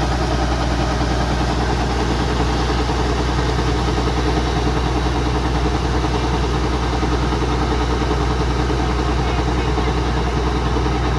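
Kubota DC-105X combine harvester's diesel engine running steadily, with no change in speed.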